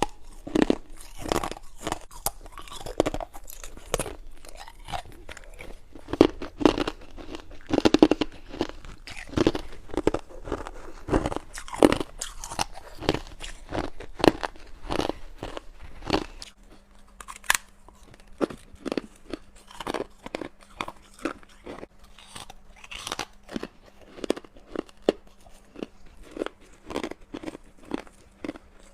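A person biting and chewing freezer frost and ice from a humidifier tray: a dense run of crisp, irregular crunches. Past the halfway point the crunches turn quieter and finer, and a steady low hum comes in.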